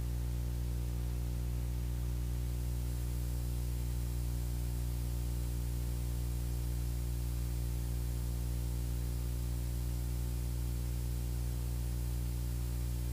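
Beechcraft Bonanza's piston engine and propeller droning steadily at constant power, an even, unchanging hum.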